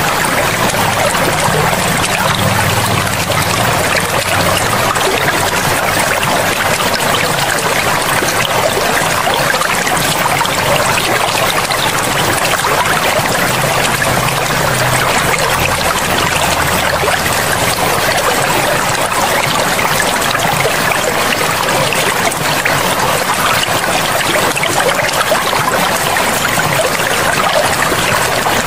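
Forest river water running steadily, an even rushing and trickling without a break.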